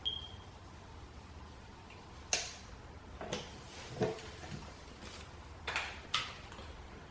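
Short scuffs and clicks of hands working on an aluminum wheel while wiping its face with alcohol swabs, about five in all and spread unevenly. A brief high tone sounds right at the start.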